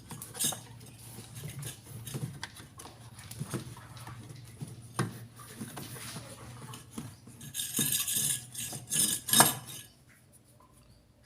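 Irregular knocks, taps and clatter of parts being handled on a twin-tub washing machine, over a steady low hum. A rushing, noisy burst comes about eight seconds in and a louder one about nine and a half seconds in; the hum stops near the end.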